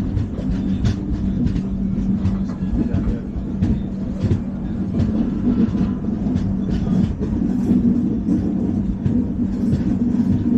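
Running noise of an LHB passenger coach at speed, heard from on board: a steady low rumble and hum, with irregular clicks and knocks from the wheels on the track.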